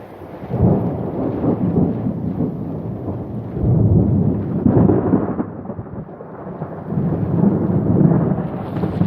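Rainstorm: rain falling with thunder rumbling in three long rolling swells.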